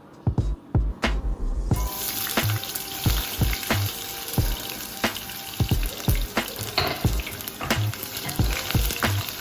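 Food sizzling in hot oil in a pan, starting abruptly about two seconds in, over background music with a steady beat.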